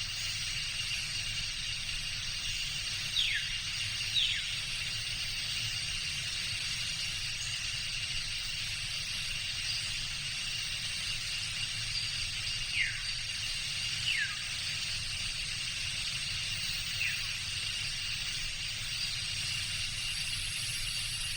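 Tropical jungle ambience: a steady high insect drone over a low rumble, with short falling whistled bird calls, two pairs and then a single one.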